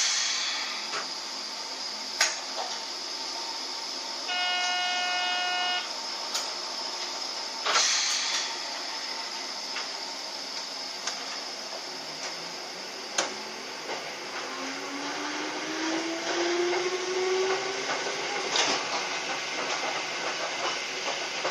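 Hakone Tozan Railway electric train heard from the driver's cab as it starts up the grade: two sharp hisses of air, a single horn note lasting about a second and a half, a few sharp clicks, and a low motor whine that rises in pitch as the train gathers speed.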